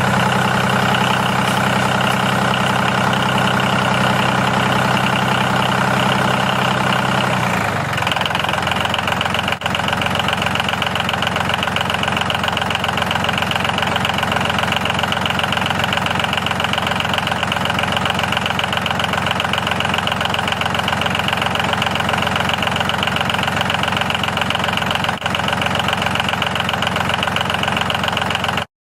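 Tractor engine running steadily, its note shifting slightly about seven and a half seconds in.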